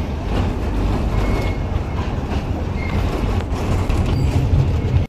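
Small joy train rolling along its miniature track, heard from an open passenger carriage: a steady rumble of the wheels with scattered clicks from the rail joints and a few brief thin wheel squeals. The sound cuts off suddenly at the end.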